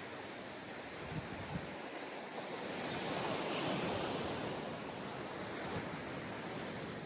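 Ocean waves washing onto a sandy beach: a steady surf hiss that swells as a wave breaks a few seconds in and then eases back, with two faint low thumps about a second in.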